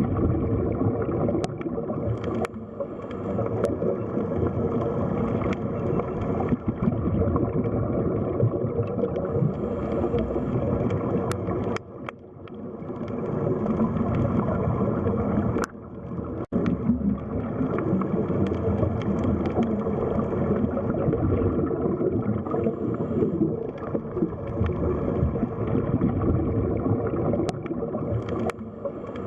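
Underwater sea ambience: a continuous, dense gurgling and rushing of water with a low rumble and scattered sharp clicks. It dips briefly twice in the middle.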